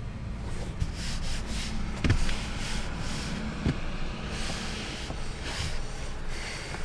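Rubbing and rustling strokes with two dull knocks, about two seconds and three and a half seconds in, over a steady low rumble.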